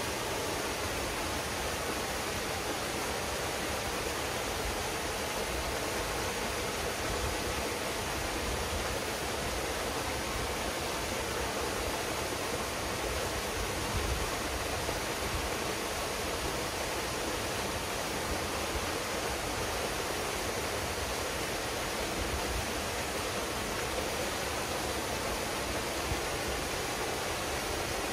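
A waterfall pouring steadily into a pool, an even rushing of water.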